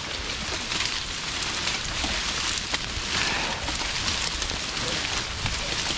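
Freezing rain pattering down steadily, with a few faint ticks.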